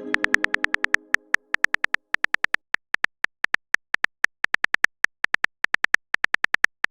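Rapid, even clicking of a phone-keyboard typing sound effect, about eight clicks a second. A musical chime fades out under the first two seconds.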